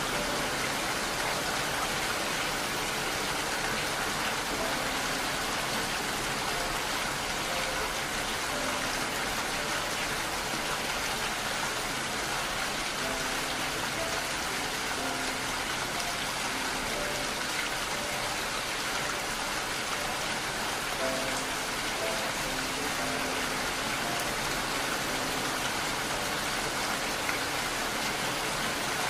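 Steady rain falling, an even hiss that does not change. A soft, slow melody of faint held notes plays underneath it.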